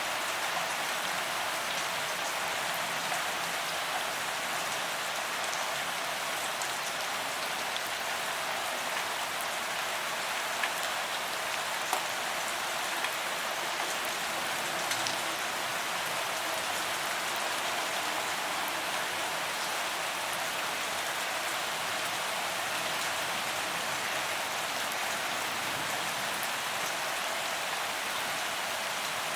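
Steady rain falling on a paved promenade, an even hiss of drops hitting the ground with a few sharper drop clicks now and then.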